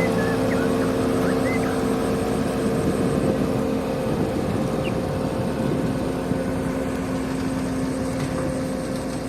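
A steady mechanical hum: a constant drone of a few fixed tones over an even hiss.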